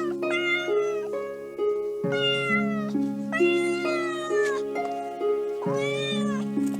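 A cat meowing about four times, each meow under a second long and arching in pitch, over soft background music of plucked, harp-like notes.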